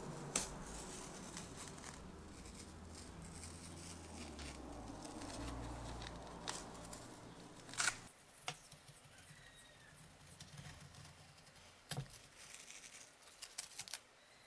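Hand work with rubbing and rustling for about the first eight seconds, then quieter, with a few sharp clicks or knocks, the loudest about eight and twelve seconds in.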